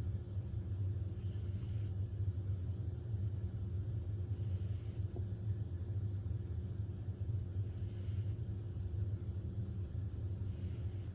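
Blue nose pit bull puppy snoring in its sleep: a short hissing breath about every three seconds, four times, over a steady low hum.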